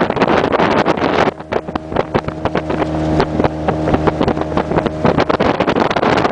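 A small motorboat's engine running steadily under way, amid wind rush on the microphone and many short knocks. For a few seconds in the middle the rush eases and the engine's steady drone comes through clearly.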